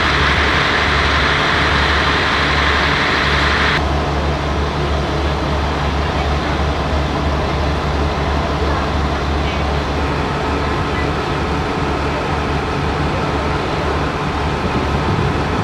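Steady low drone of a stationary diesel train idling at a platform, with a higher hiss over the first four seconds that cuts off sharply. Faint platform chatter sits underneath.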